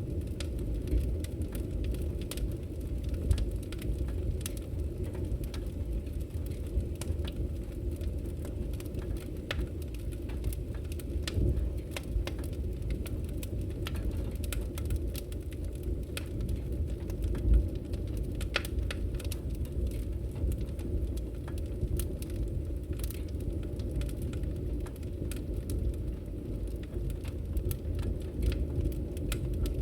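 Wood fire burning: a steady low rumble with frequent small, irregular crackles and pops from the burning firewood.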